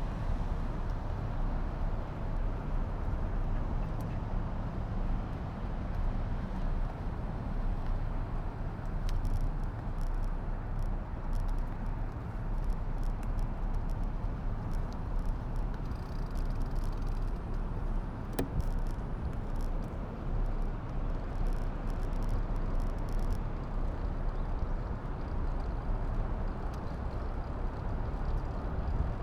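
Wind and road noise picked up by a DJI Action 2 action camera while riding: a steady low rumble of air over the microphone with tyre hiss. A few light ticks come through between about nine and thirteen seconds in.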